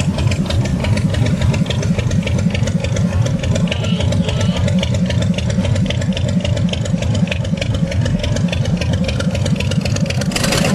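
A car engine running loudly and steadily, its exhaust giving a rapid, even pulse.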